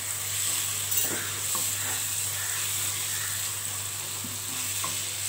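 Onion-tomato masala with freshly added spice powders sizzling in oil in a nonstick kadai, stirred and scraped with a spatula. It is a steady frying hiss with a few faint scrapes.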